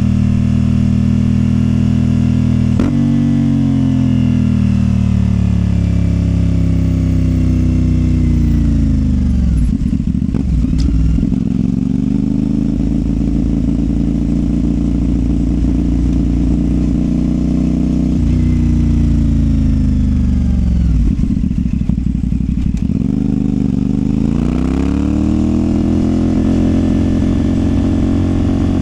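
CFMOTO 450SR parallel-twin engine through a Yoshimura exhaust, heard while riding. The revs fall away slowly over several seconds and hold steady for a while. They drop again about two-thirds in, then climb as the bike accelerates near the end.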